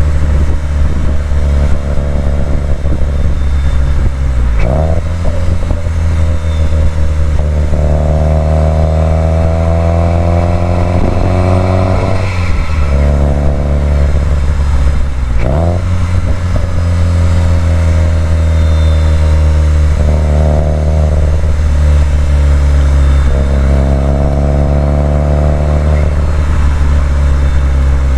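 Subaru WRX STI's turbocharged flat-four engine under way on a winding road, its pitch climbing gently as it pulls. About three times the note drops briefly and picks up again.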